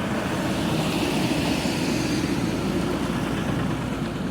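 A road vehicle driving past, its engine and tyre noise swelling about a second in and then slowly fading.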